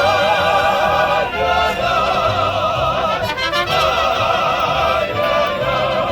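Live mariachi band playing: a wavering melody with strong vibrato over strummed guitars and a bass line, with quick strummed flourishes about three and a half seconds in.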